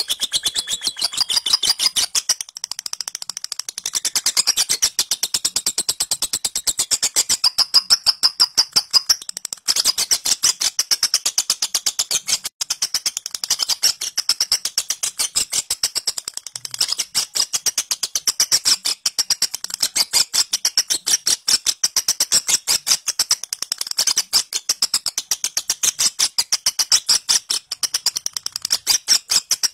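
Lovebird singing a long 'ngekek' in the 'ngetik' style: a rapid, unbroken run of sharp, high chirps, like typewriter keys, with a few brief breaks.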